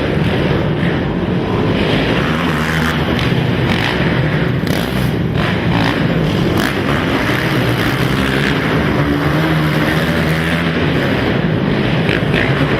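Racing quad (ATV) engines running hard, their pitch rising and falling as the riders work the throttle.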